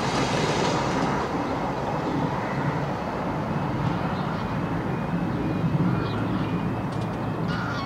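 A train running past, a steady mix of rolling and running noise with a low hum.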